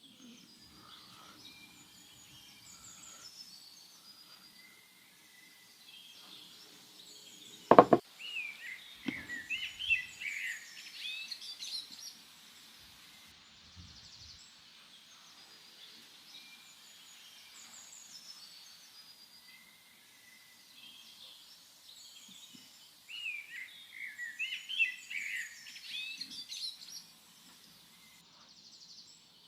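Songbirds chirping in two bouts of quick, high notes, over faint outdoor background. A single sharp knock about eight seconds in is the loudest sound.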